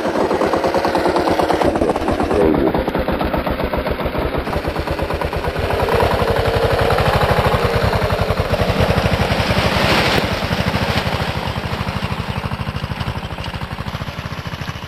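Kawasaki KLR650's single-cylinder four-stroke engine running close by, a fast, even train of separate firing pulses. It gets louder about six seconds in and eases off over the last few seconds.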